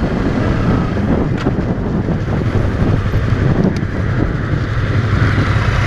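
Yamaha YZF-R3's parallel-twin engine running steadily while the motorcycle is ridden, with wind rushing over the microphone.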